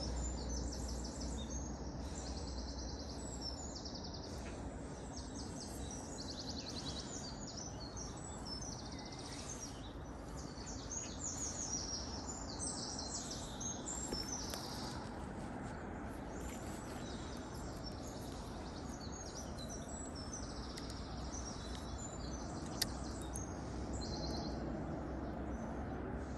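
Small birds singing continuously in quick, repeated trills and chirps, over a steady low background hum of outdoor noise.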